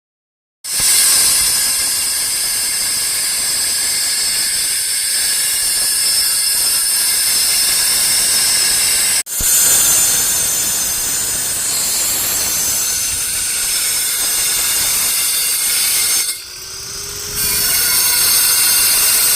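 Power tools on a concrete slab during demolition: a loud, steady grinding noise with a high whine over it. It cuts off briefly about nine seconds in and again near the end.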